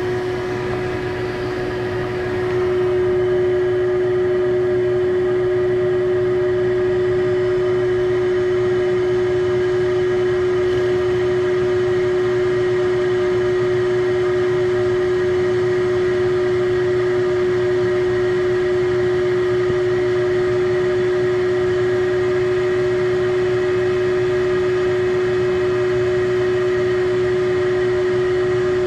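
Vacuum used for oil extraction running with a steady, high-pitched motor hum, getting a little louder about two and a half seconds in. It is drawing on a thin tube down the dipstick tube but pulls no oil, because the tube is too narrow to hold suction.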